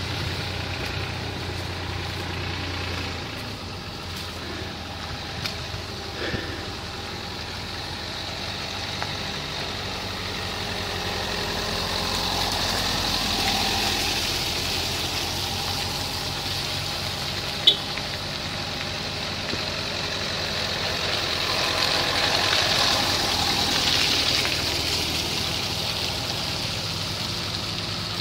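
An off-road SUV's engine running at low speed, its sound swelling twice as it takes more throttle and easing back, with one short sharp click partway through.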